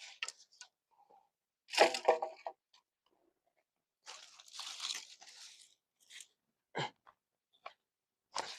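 Irregular crunching and rustling, with a loud burst about two seconds in, a longer rustle a few seconds later, and a few short sharp clicks near the end.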